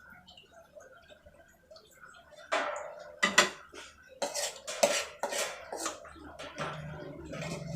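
Metal kitchen utensils clinking and scraping against dishes: a quick run of clatter starting about two and a half seconds in, with a low steady hum coming in near the end.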